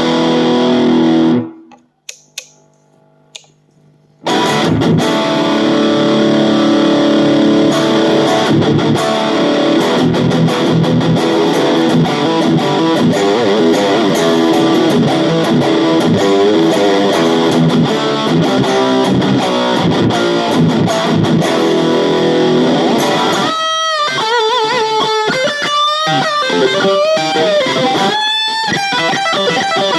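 AIERSI ST11 Custom HSS electric guitar played through effects. Ringing chords cut off about 1.5 s in, followed by a short near-silent gap with a couple of faint plucks, then continuous playing resumes. Near the end it moves to single-note lead lines with bends and vibrato.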